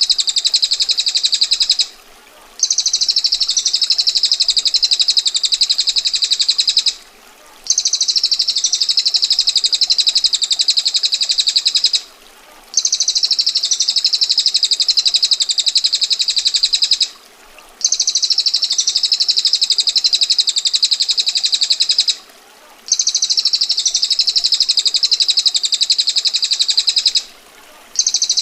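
Recorded songbird call: a harsh, very rapid, tightly packed high trill, repeated in even bursts of about four and a half seconds with short pauses between. This is the looped 'ngetir' rattle used to train cage birds.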